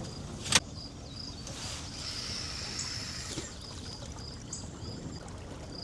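River current trickling and rushing past an anchored boat, with a single sharp knock about half a second in. Crickets chirp in a steady pulsing rhythm throughout.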